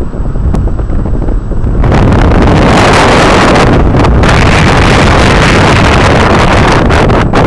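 Wind buffeting the microphone: a low rumble at first, turning into a loud, constant rush about two seconds in.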